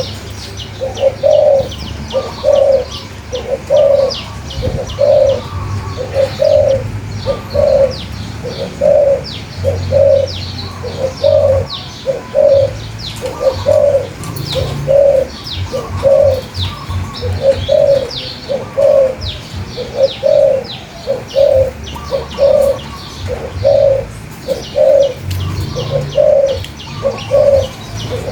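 A dove cooing over and over in an even rhythm, a little more than one coo a second, with small birds chirping rapidly in high short notes.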